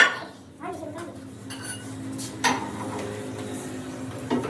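Metal objects clinking and knocking: a sharp knock at the start, another about halfway and a third near the end, over a steady low hum.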